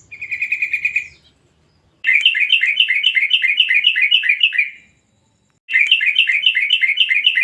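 Yellow-vented bulbul (trucuk) calling: runs of rapid, evenly repeated chattering notes. A short run comes first, then two longer runs of about three seconds each.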